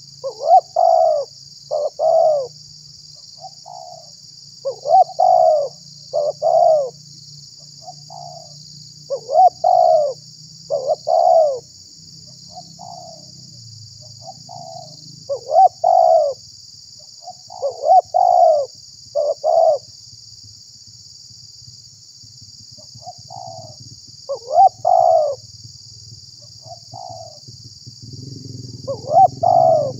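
Spotted dove (tekukur) cooing: short coo notes in phrases of two or three, repeated every few seconds. A steady high hiss runs underneath.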